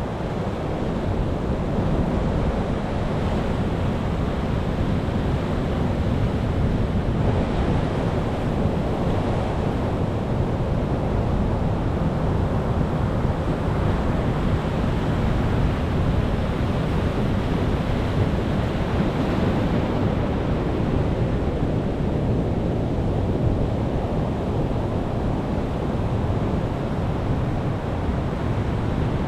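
Ocean waves breaking and washing in a continuous surf, a steady rushing noise with slow gentle swells in loudness.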